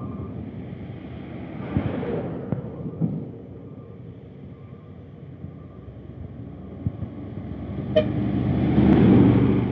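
Heavy truck diesel engines running on an uphill road, fading in the middle and swelling loudly near the end as a vehicle passes close, with a few sharp knocks.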